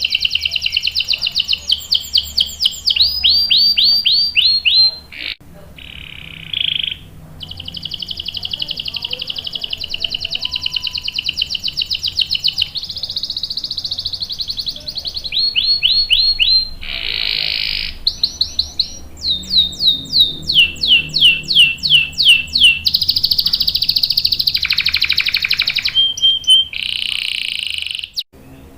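Domestic canary singing long rolling song. Fast buzzing trills alternate with runs of sharp downward-sliding notes, broken by a brief pause about five seconds in and another just before the end.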